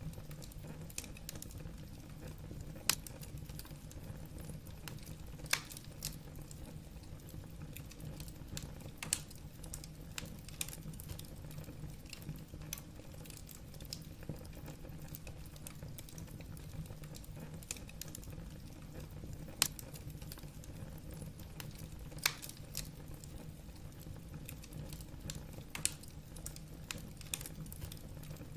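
Firewood burning in a fireplace: a steady low rumble of the fire with light crackling throughout and a sharp pop every few seconds.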